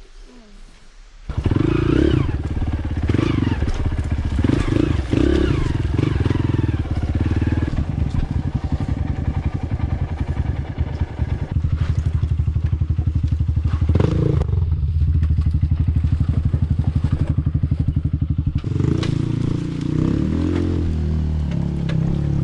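Single-cylinder dirt bike engine close to the microphone. It comes in suddenly about a second in and runs loud and fast-pulsing, with changes in throttle.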